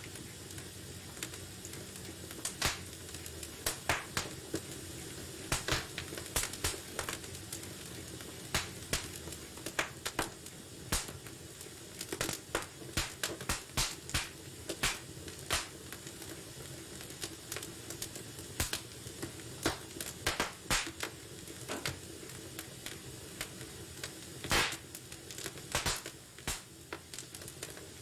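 Wood fire burning in a fireplace: a steady low hiss with frequent sharp, irregular crackles and pops.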